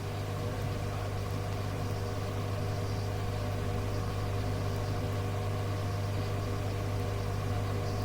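Steady hum and hiss of an air-band radio recording between transmissions, with a low hum and a few steady tones and no change in level.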